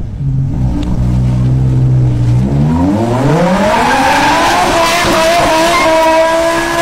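BMW coupe engine running low and steady, then revving up sharply about two and a half seconds in and held at high revs as the rear tyres spin and squeal in a smoky drift.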